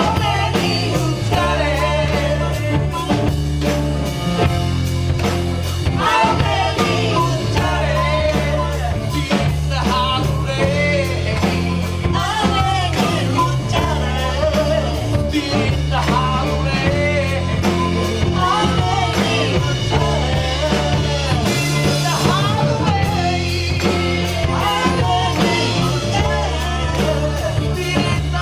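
A soul band playing with a lead singer: a sung vocal line over a steady bass line, drums and guitar.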